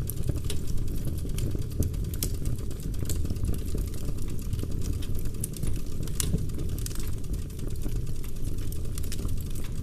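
Log fire burning in a fireplace: a steady low rumble of flames with frequent sharp crackles and pops of burning wood.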